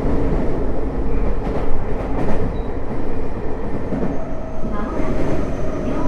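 Tokyo Metro 05 series train running at speed, heard from inside the car: a steady rumble of wheels on rail with a few faint clicks of the track. A faint steady whine comes in about four seconds in.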